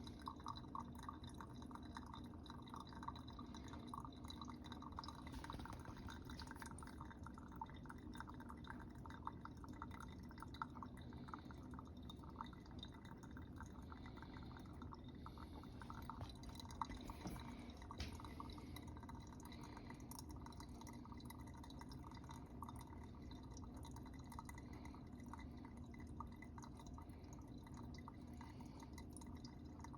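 Coffee dripping faintly through a metal Chemex filter into the carafe during a slow drawdown, which the owner puts down to grounds ground too fine.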